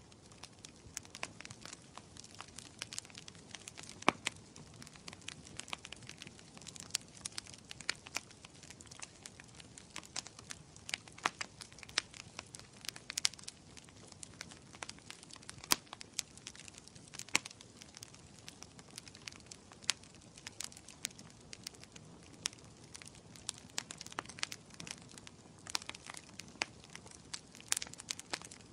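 Wood fire in a fireplace crackling, with irregular sharp pops and snaps scattered over a soft steady hiss.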